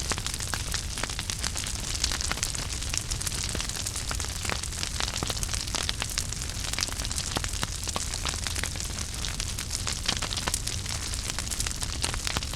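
Fireplace fire burning, with a steady hiss and low rumble under frequent irregular crackles and pops.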